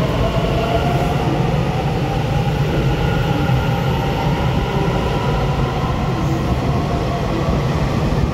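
Taiwan Railway EMU900 electric commuter train pulling in along an underground platform: a loud, steady rumble of wheels and running gear with thin whining tones above it.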